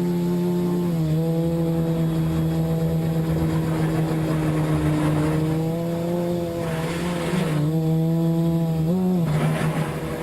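Multirotor's electric motors and propellers humming steadily in flight, the pitch dipping and lifting slightly with throttle changes and wavering up briefly near the end, with bursts of rushing air along the way.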